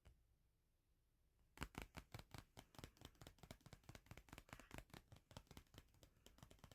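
Rapid tapping on a bookmark, a quick run of small clicks that starts about a second and a half in and keeps going.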